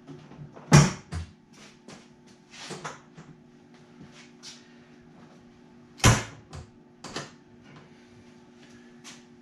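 Irregular clicks and clunks of hand tools and metal as the motorcycle seat bolt is tightened, with two loud knocks, one about a second in and one about six seconds in, over a steady low hum.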